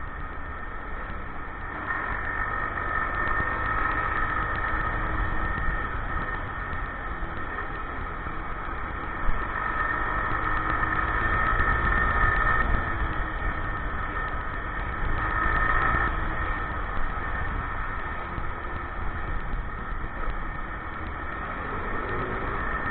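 Motorcycle engine running through city streets, its pitch rising and falling a few times as it speeds up and slows, over a low wind rumble on the microphone. A short thump about nine seconds in.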